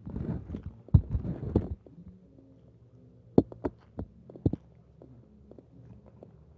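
Close-up chewing of roast chicken: soft low thumps and wet crackles for the first second and a half, then quieter, with a few sharp mouth smacks about halfway through.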